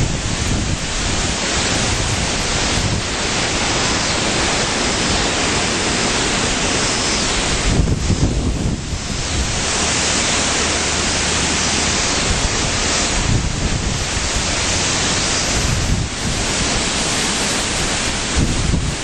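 Strong gusty wind from a hurricane's remnants blowing hard, buffeting the microphone with a low rumble.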